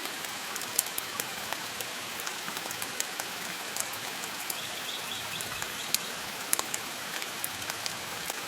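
Steady rain hissing, mixed with the sharp, irregular pops and crackles of a wood fire burning in a fireplace.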